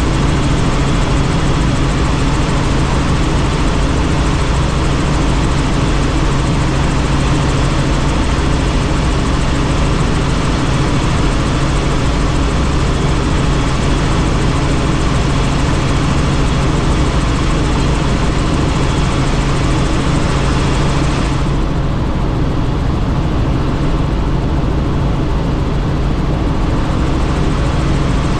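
Helicopter in flight heard from on board: steady rotor and engine noise with a strong low hum under a dense rushing hiss. The higher hiss drops off abruptly about three quarters of the way through while the low hum carries on.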